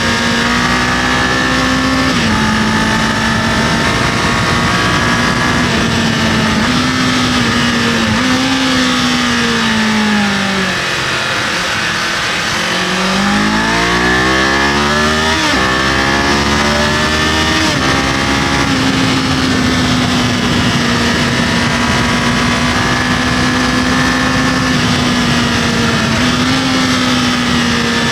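Kawasaki KLE500 motorcycle's parallel-twin engine running under way, holding a steady note, then dropping in pitch as the throttle is closed about ten seconds in, then climbing again in steps with upshifts before settling back to a steady cruise. Wind noise hisses underneath throughout.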